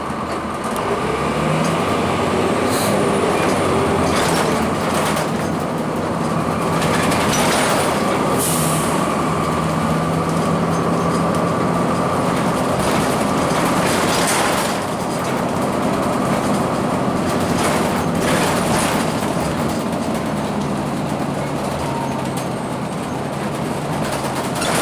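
Cummins ISC diesel engine and Allison B400R automatic transmission of a 2002 Blue Bird CS transit bus under way: the engine pitch rises over the first second or so, then holds steady with a steady whine. Body rattles and clunks come through at intervals.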